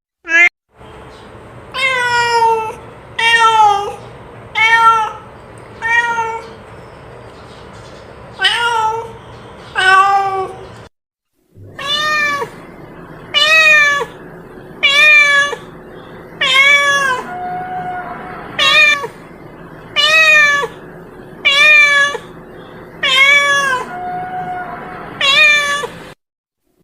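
A domestic cat meowing over and over, about one meow every second and a half, each call rising then falling in pitch, a few held longer and lower. The series breaks off to silence briefly twice.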